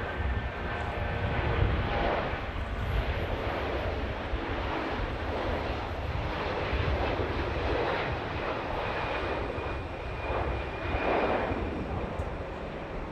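Jet airliner engines, a steady roar.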